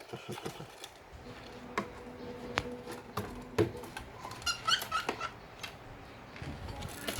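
Pet bird pecking at a box: scattered sharp taps and scrapes, with a few short high chirps about four and a half to five seconds in.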